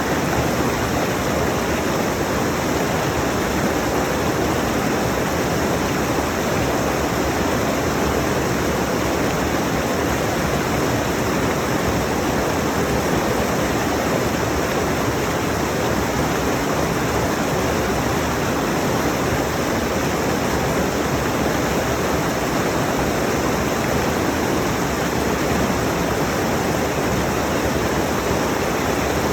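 Rushing mountain stream: water pouring over rocks in a steady, unbroken rush that does not change.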